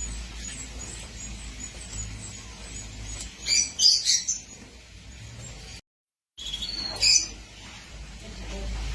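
Small birds chirping in two short bursts, about three and a half seconds in and again near seven seconds, over a steady low hum. The sound drops out for about half a second near the six-second mark.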